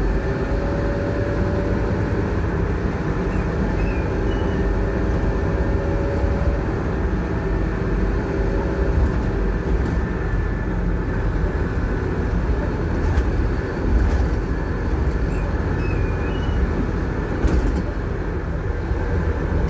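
Scania K230UB bus running under way, heard from inside: a steady low diesel engine and road noise, with a whine that fades out about seven seconds in and a few brief rattles.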